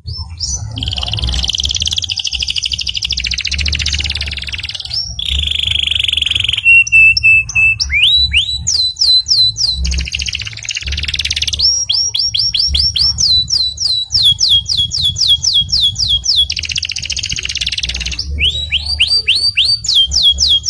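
Domestic canary singing: long, fast rolling trills alternate with runs of quick rising chirps, several a second, and a short steady whistled note about a third of the way in.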